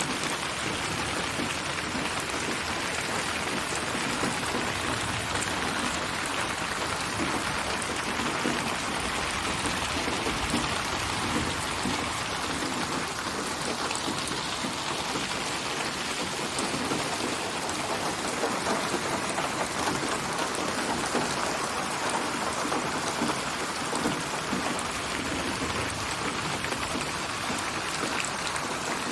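Steady, dense rainfall with drops pattering on surfaces, a virtual rain soundscape built from many rain recordings and spatialized with HRTF (8D) processing so the rain seems to surround the listener.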